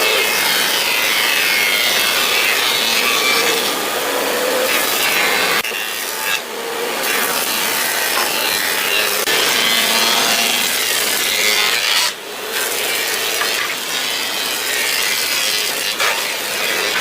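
A tool cutting into wood with a continuous sawing, rasping sound, pausing briefly about 6 and 12 seconds in.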